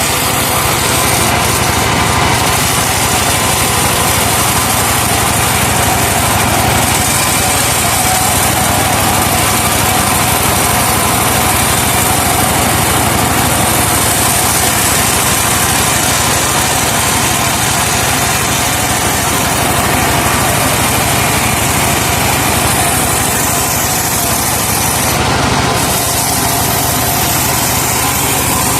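Truck-powered sawmill running steadily, its engine held at a constant speed to drive the saw through laban timber.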